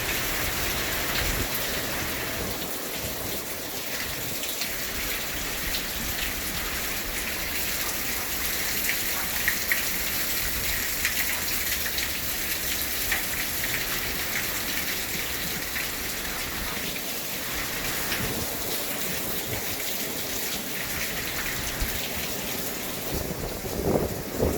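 Steady hurricane rain falling, with a constant hiss and many small drop clicks on a nearby surface.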